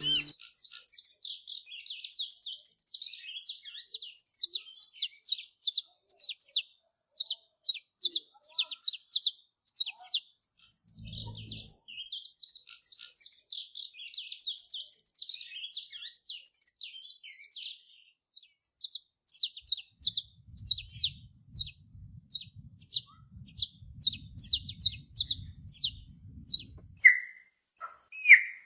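A songbird singing a continuous run of rapid, high chirps and twitters, with a few lower, louder calls near the end. A brief low thump comes about eleven seconds in, and a low rumble runs under the song for several seconds in the later part.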